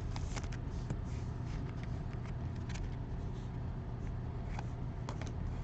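Faint handling of trading cards, with soft scattered clicks and rustles as cards are flipped through, over a steady low hum.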